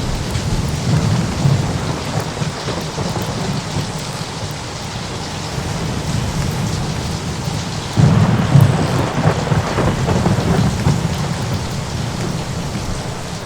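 Thunderstorm ambience: a steady hiss of rain with thunder rumbling low. A louder peal of thunder breaks suddenly about eight seconds in and rolls away over several seconds.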